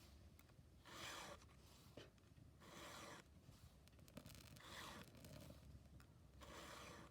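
A chainsaw chain being sharpened with a hand file: faint rasping file strokes, one about every two seconds, four in all.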